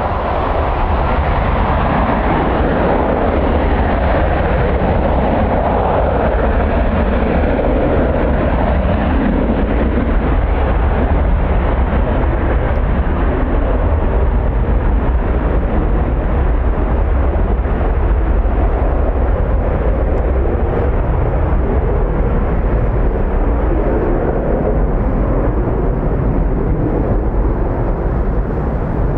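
Steady roar of jet airliner engines, the pitch of the roar shifting slowly, mixed with a heavy rumble of strong wind buffeting the microphone.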